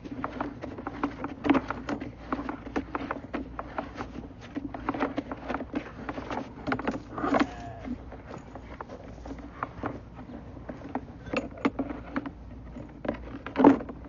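A plumbing inspection camera's push cable rattling and knocking irregularly in a pipe, over a steady low hum.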